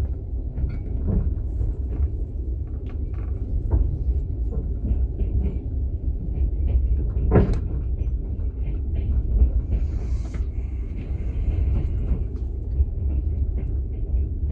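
Passenger train carriage heard from inside while under way: a steady low rumble with scattered small knocks and rattles, and one sharper knock about halfway through.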